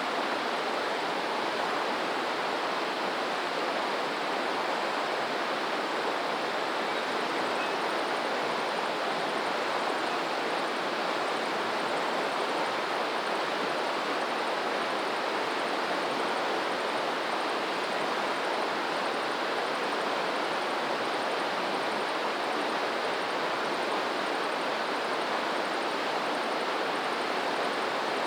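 Flowing water rushing steadily, an even hiss that holds at one level without surges.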